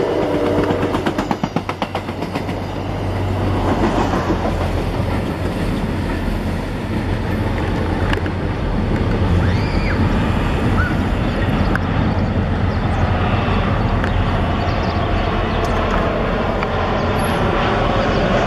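Train passing through a station: its horn cuts off about half a second in, then a quick run of wheel clicks over rail joints gives way to a steady low rumble of the train running by.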